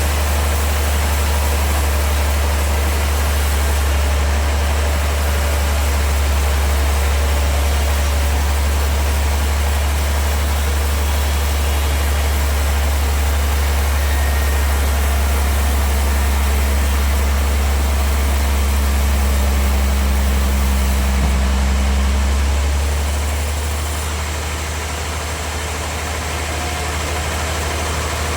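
Sawmill machinery running steadily: a strong, constant low hum with an even rushing noise over it, the hum easing off about 23 seconds in.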